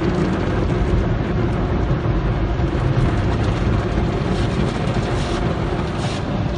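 Automatic soft-cloth tunnel car wash running over a car: a loud, steady rumbling wash of machinery and water, with a few short hissing bursts of spray in the second half.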